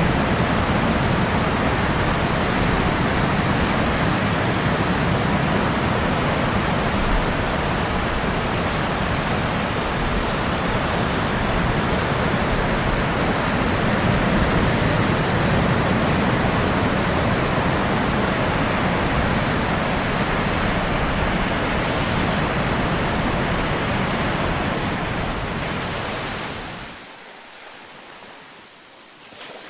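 Steady, dense rushing of ocean surf. About 26 seconds in it fades down to a much quieter lull.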